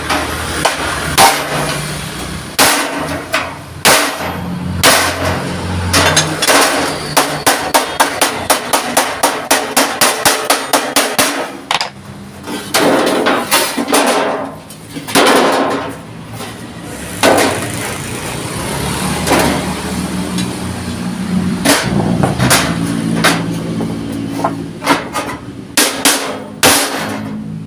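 Hammer striking thick sheet steel plate in repeated sharp blows, with a quick run of about four strikes a second in the middle.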